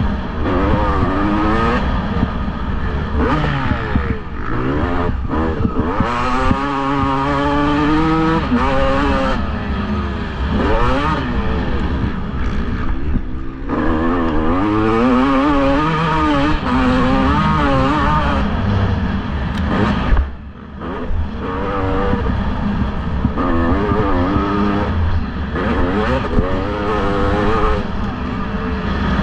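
Several motocross bikes racing, their engines revving up and down over and over as they accelerate and shift, with a brief drop in level about twenty seconds in.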